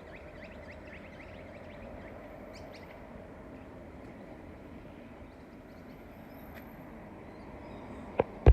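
Steady road traffic noise with small birds chirping rapidly for the first few seconds, then two sharp knocks in quick succession near the end.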